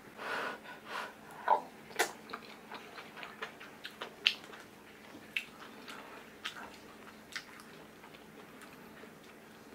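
A person eating rice and kimchi stew close to the microphone: chewing with wet mouth clicks and a few sharp clicks, the loudest in the first half.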